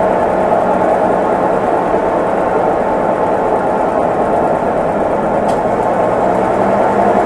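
Consul Facilite 11 kg (CWG11) washing machine running mid-cycle: a steady, continuous churning noise over a low, even hum.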